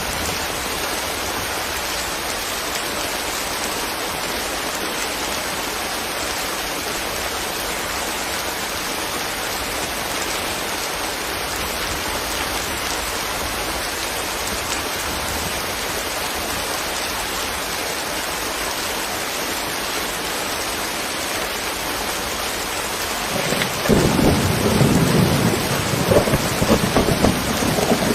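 Steady rain falling, an even hiss. Near the end a rolling rumble of thunder sets in suddenly and goes on, louder than the rain.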